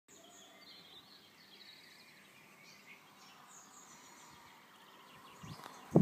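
Small birds singing and chirping faintly over a quiet outdoor hush, with several short high phrases in the first few seconds. A low rumble and a sharp thump come just before the end.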